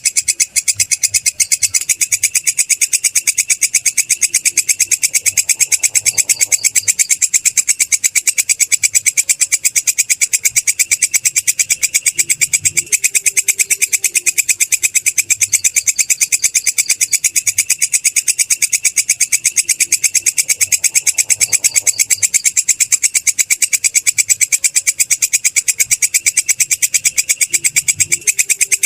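Belalang kecek katydid stridulating: a continuous high-pitched, fast, even chirring made of rapid repeated pulses that never pauses.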